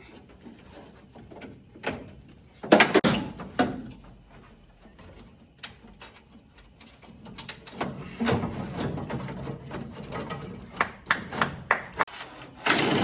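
Hand tools and loose metal car parts clanking and knocking during a car teardown. The knocks come irregularly, with a loud cluster about three seconds in and a busy run of clatter through the second half.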